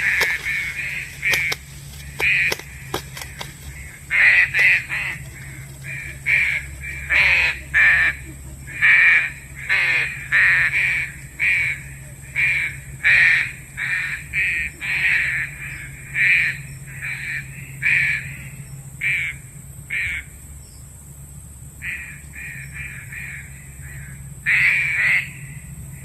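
Pink-necked green pigeon (punai daun) calling: a long series of short, harsh notes at about one to two a second, some with a falling sweep, with a short break about 20 seconds in. A steady low hum runs underneath.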